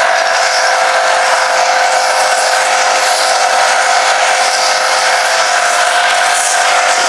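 Pressure washer spraying, a steady loud hiss with a high whistling whine running through it.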